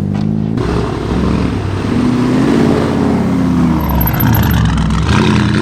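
A car engine running close by as the car drives past, its pitch rising and then easing off, with a rush of exhaust and road noise that starts about half a second in.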